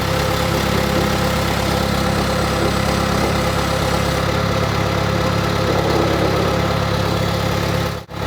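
An engine idling steadily, with an even low hum; the sound cuts out for a split second near the end.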